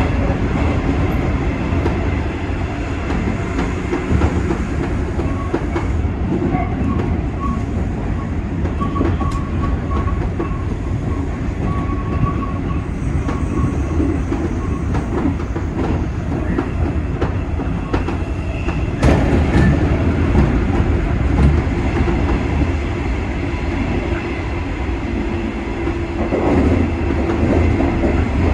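JNR 201 series electric train running between stations, heard from the front cab: a steady rumble of wheels on rail with the clickety-clack of rail joints. The noise gets suddenly louder and brighter about two-thirds of the way through.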